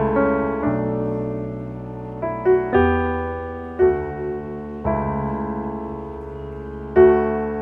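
Background piano music: slow, soft chords, each struck and left to ring out.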